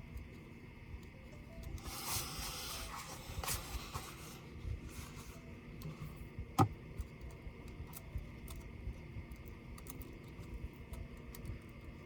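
Handling noise from taking apart a Dell Vostro 13 5310 laptop: a scraping rub about two seconds in that lasts a couple of seconds, then a single sharp click past the middle, with small scattered clicks and taps.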